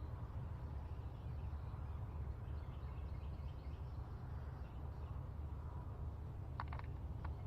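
Outdoor ambience: a steady low rumble with faint bird chirps, and a few light clicks near the end.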